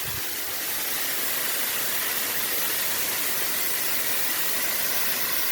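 Waterfall close up: a steady rush of falling water and spray.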